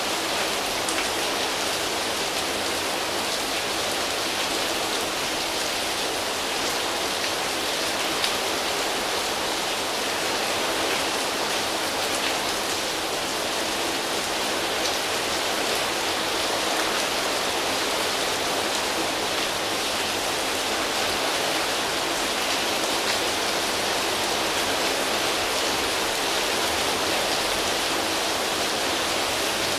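Steady rain falling on foliage, a continuous even hiss of drops pattering on leaves with no lulls.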